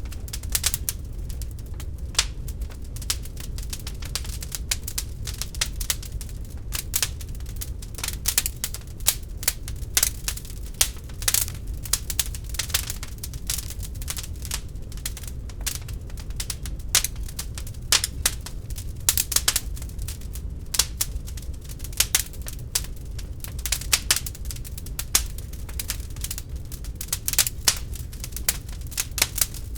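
Wood fire burning in a fireplace, crackling steadily with many sharp, irregular pops and snaps over a low, steady rumble of the flames.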